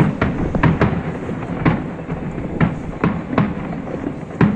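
Fireworks display going off: a rapid, irregular series of sharp bangs over a continuous low rumble.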